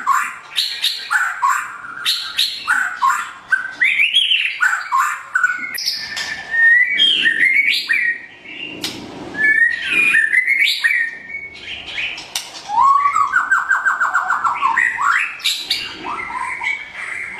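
White-rumped shama (murai batu) singing a loud, varied song of rich whistled phrases that slide up and down, mixed with sharp clicking notes, and a fast trill about thirteen seconds in.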